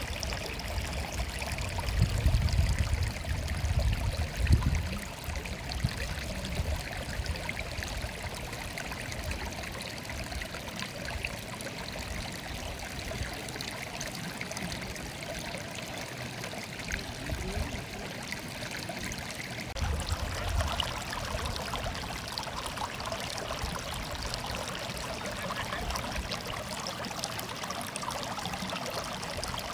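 Stream water murmuring and trickling steadily, with short stretches of low rumble a couple of seconds in and again about two-thirds of the way through.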